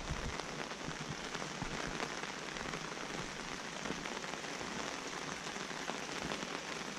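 Light rain falling steadily: an even hiss made of many small drop ticks.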